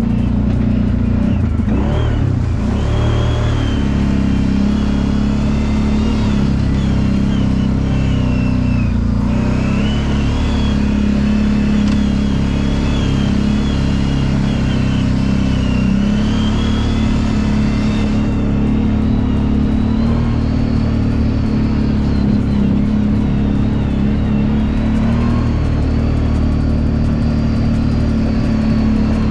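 Kawasaki Brute Force 750 ATV's V-twin engine running steadily under way, its pitch rising and falling a little with the throttle.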